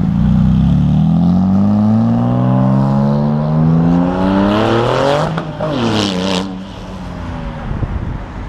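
A car accelerating hard in one gear, its engine note climbing steadily, then dropping in pitch as it passes about five seconds in, with a brief hiss just after.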